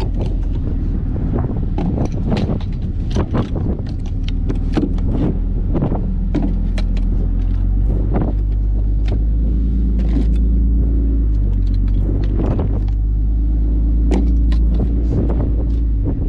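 A motor vehicle's engine running steadily while driving, with frequent rattles and knocks over it; the engine note shifts a couple of times.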